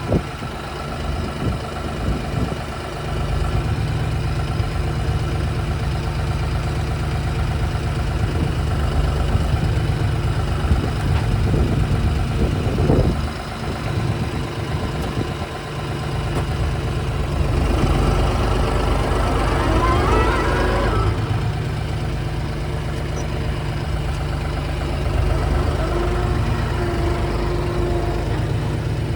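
Tractor engine running steadily, its pitch rising for a few seconds a little past the middle.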